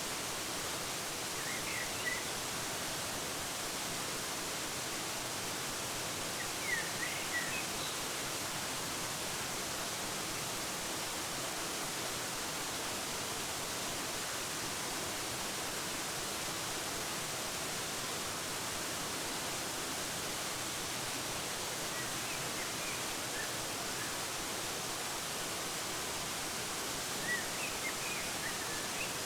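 Waterfall running with a steady, even rush of water. Short, high bird chirps come through it now and then: about two seconds in, around seven seconds, faintly a little past twenty seconds, and again near the end.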